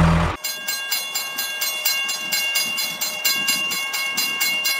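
Railroad level-crossing warning bell ringing in fast, even strikes, about five a second, cutting in abruptly about half a second in as an engine drone stops.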